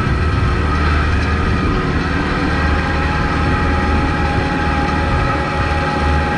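Kubota MX5200 tractor's four-cylinder diesel engine running steadily with a deep hum, with a steady higher tone joining about two and a half seconds in.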